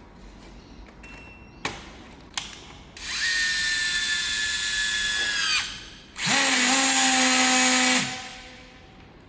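An electric drill motor run twice on the trigger: a whine of about two and a half seconds, then one of about two seconds, each spinning up and winding down. Two sharp clicks come shortly before the first run.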